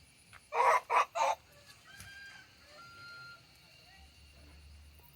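An animal calling three times in quick succession, short and loud, followed by a few faint, thin chirps.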